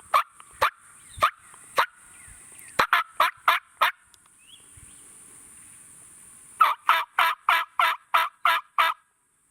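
Three runs of turkey yelps, short evenly spaced notes: about five slow ones, then five quicker ones, then after a pause a longer run of about nine. A steady high insect hum runs underneath.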